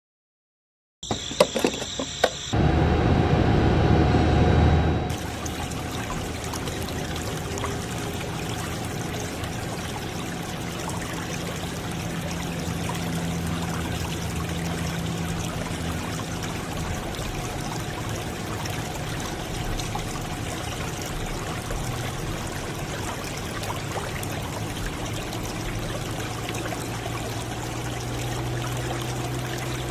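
Liquid pouring and trickling steadily from a small pump in a DIY model petrol pump. A few sharp clicks come about a second in, then a louder rushing pour for a couple of seconds before it settles into a steady trickle.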